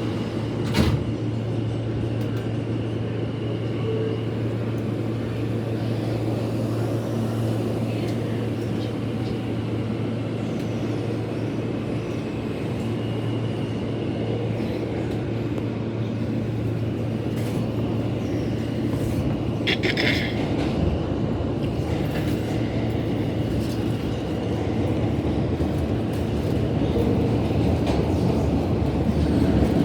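New York City subway E train heard from inside the car while running between stations: a steady rumble of wheels on rail under a constant hum. A brief high screech about twenty seconds in, and the noise grows louder near the end.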